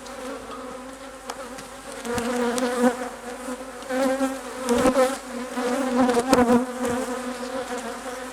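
Swarm of honey bees buzzing around an opened hive: a steady, pitched hum that swells and fades, with a few knocks in between.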